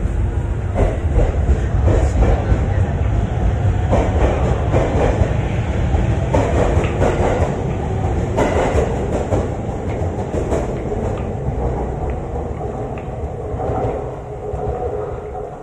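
JR East E231-series electric commuter train pulling out of the station and picking up speed alongside the platform: a heavy rumble with wheels clacking over the rail joints and a whine from the traction motors. It fades as the train draws away near the end.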